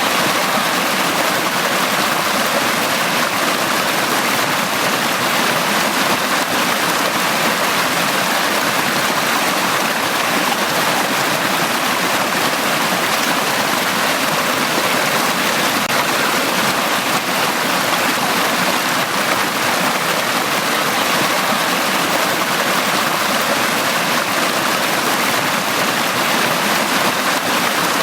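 Valley stream rushing steadily over rocks, an even, unbroken flow of water.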